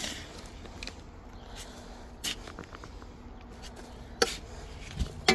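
A few short, sharp knocks and scrapes over a low rumble, the loudest about four seconds in.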